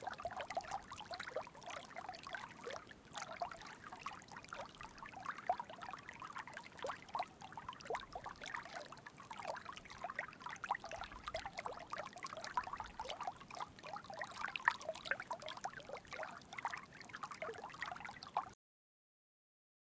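Water trickling and bubbling: a steady run of small liquid plinks that cuts off suddenly near the end.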